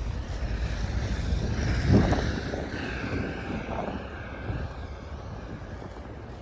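Snowstorm wind buffeting the microphone as a low rumbling noise, surging strongest about two seconds in and then easing.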